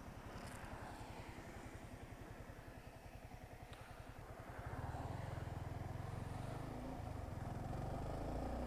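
Single-cylinder motorcycle engine running with an even low pulse, getting louder about four and a half seconds in as it is revved or put under load.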